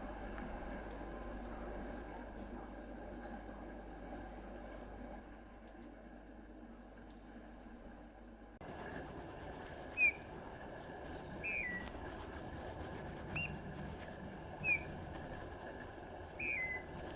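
Small wild songbirds calling: short, thin, high descending notes repeated every second or so. After a cut about halfway through, lower soft whistled notes join in among more high calls.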